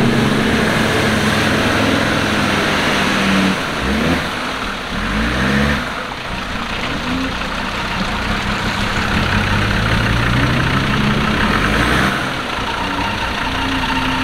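Land Rover Defender engine running, revving up and dropping back a few times between steadier stretches, with revving about a third of the way in and again near the end.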